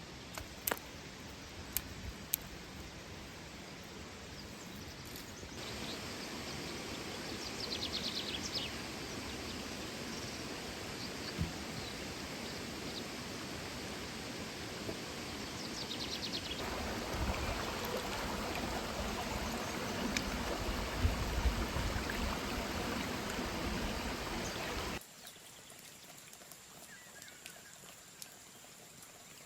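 Flowing water rushing steadily, its level stepping up twice and dropping sharply about 25 seconds in. A few sharp clicks in the first couple of seconds.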